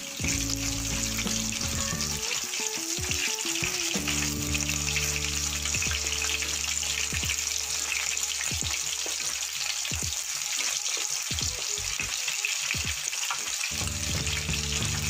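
Batter-coated chicken pieces sizzling steadily as they fry on a low flame in mustard oil in a kadai, with a wooden spatula turning them now and then.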